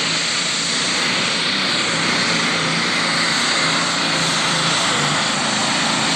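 Turbocharged diesel engine of a super stock pulling tractor running hard, a loud, steady, unbroken sound with no pause.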